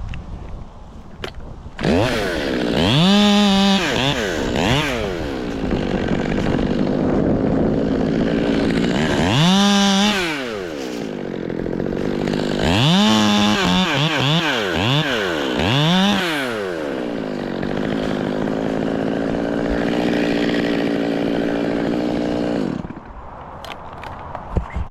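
Two-stroke chainsaw starting up about two seconds in, revved up and down several times with steadier running between, then cut off near the end.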